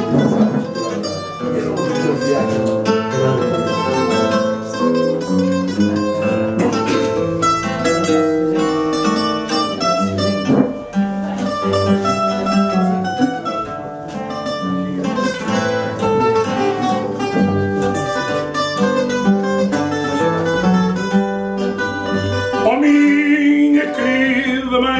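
Fado instrumental introduction: a Portuguese guitar plays the melody over chords from a viola de fado (classical guitar).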